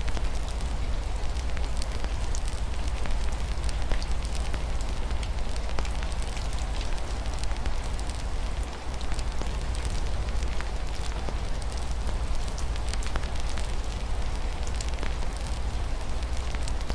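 Wood fire crackling with frequent small pops and snaps over a low steady rumble, with a constant hiss of rain beneath it.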